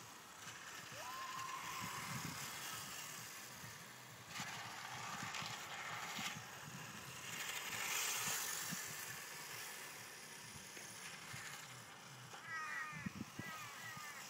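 A 1/5-scale radio-controlled Ducati 996 motorbike running on a track, its sound swelling as it passes twice in the middle. Birds chirp briefly near the end.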